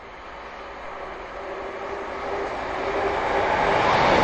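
Diesel multiple unit passenger train approaching and growing steadily louder, its engine and wheel noise building to a peak as it passes close by near the end. A steady droning note sits under the running noise.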